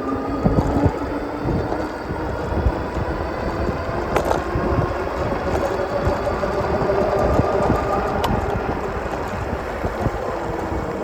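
Electric e-bike motor whining while riding, its pitch drifting up and down with speed, under heavy wind buffeting on the microphone.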